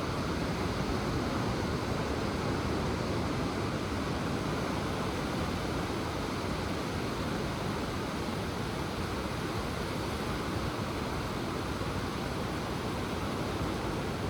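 Ocean surf washing in as a steady, even rush of waves.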